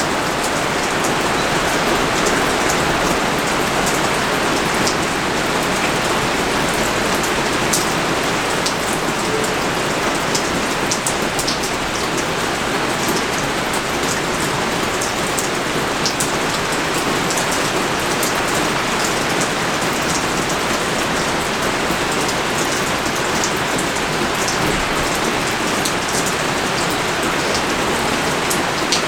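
Rain falling steadily in a dense, even hiss, dotted with many sharp ticks of drops striking nearby surfaces.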